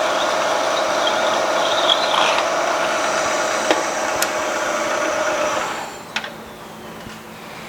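Milling machine running with a steady whine while drilling into a hardened steel crankshaft. About six seconds in it shuts off: the sound drops away, with a sharp click as it stops.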